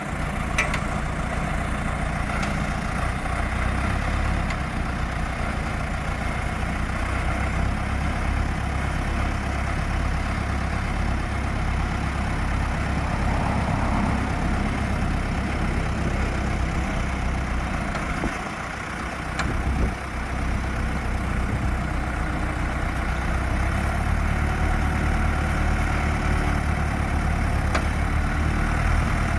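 Ditch Witch 6510 trencher's Deutz diesel engine running at a steady idle, with a brief drop in level about two-thirds of the way through and a somewhat heavier low note in the last few seconds.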